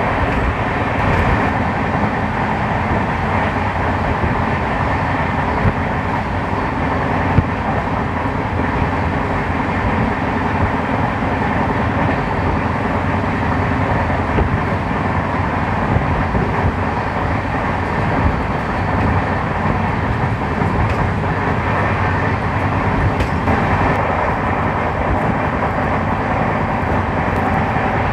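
Steady running noise of a passenger train coach at speed, heard at an open door: wheels on the rails and rushing air. A brief knock comes about seven seconds in.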